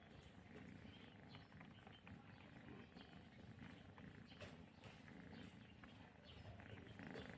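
Kitten purring faintly, a steady low rumble, with a few soft clicks over it.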